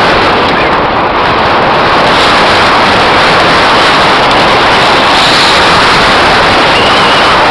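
Loud, steady wind noise buffeting the microphone of a camera on a mountain bike riding downhill at speed, mixed with the rumble of the bike on the trail.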